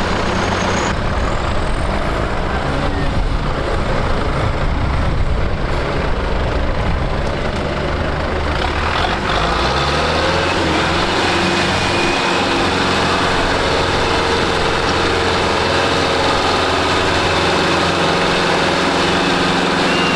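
Heavy diesel tractor engine running hard under load. About nine seconds in its pitch rises, then holds steady.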